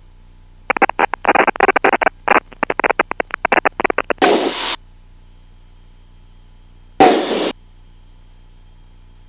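Aircraft VHF radio picking up a garbled, choppy transmission that breaks up rapidly for about three and a half seconds and is not intelligible. Two short bursts of static follow, one right after it and one about three seconds later.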